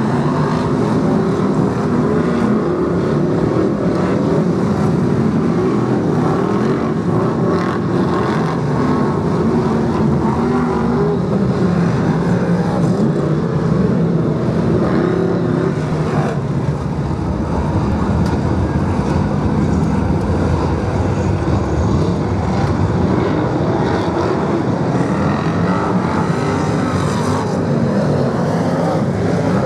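A pack of BriSCA F1 stock cars racing, their V8 engines running loud and without a break, the pitch rising and falling as cars accelerate and lift off around the track.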